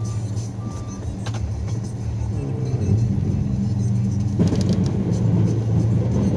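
Snowplow vehicle's engine running, rising in pitch and loudness about two and a half seconds in, with a rougher rushing noise joining just past the middle. Short high beeps repeat in the first second.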